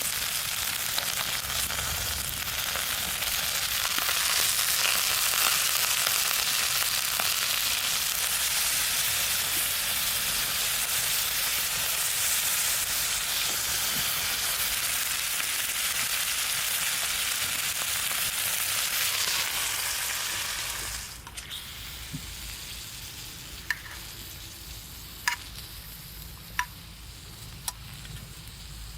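Beef sizzling and frying in a hot pan over a campfire, a dense steady hiss. About two-thirds of the way through the sizzle stops abruptly. After that only a few sharp, separate pops or crackles are heard.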